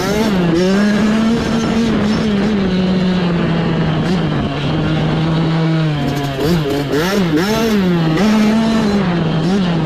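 Small youth dirt bike engine running under throttle. Its revs hold fairly level, dip about four seconds in, then rise and fall quickly over and over as the throttle is worked.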